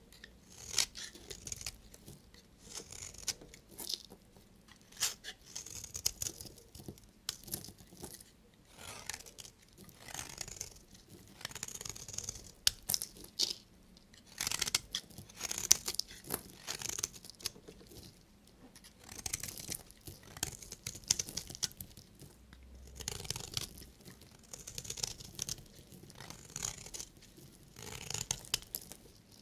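A knife cutting through bars of soap: crisp, crunchy scraping strokes in short clusters every second or two.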